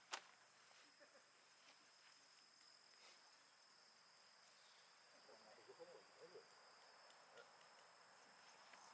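Faint, steady high-pitched chirring of crickets, with one sharp click just after the start and a few faint low sounds about halfway through.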